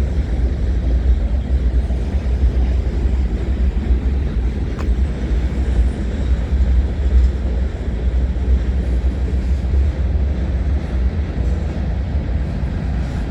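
Freight train's grain cars rolling past on the rails: a steady, deep rumble of wheels on track.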